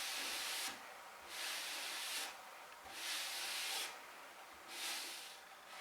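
Fine-grit sanding block rubbed back and forth along the grain of a wooden stool to smooth a coat of finish: four long, soft rubbing strokes about a second and a half apart.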